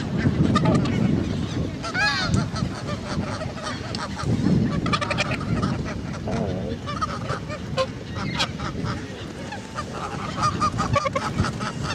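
Geese honking over and over, many short calls overlapping from several birds.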